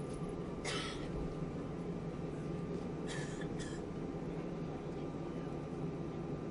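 Steady low hum inside an Airbus A320 cabin on the ground, with two short hisses, about a second in and about three seconds in.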